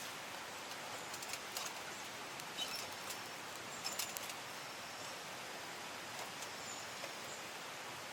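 Steady rushing of a small mountain stream, with a few light clicks and rustles in the first half and faint high chirps near the end.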